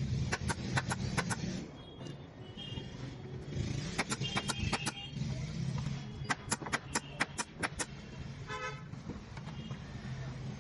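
A staple gun firing in rapid bursts of six to eight sharp clicks, about five a second, over a steady low hum. A short horn-like tone sounds about eight and a half seconds in.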